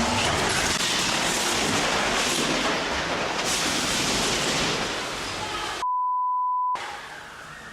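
A steady rushing noise for about five and a half seconds, then a single pure one-second censor beep that blanks out the audio, the kind laid over a swear word, followed by a quieter rushing noise.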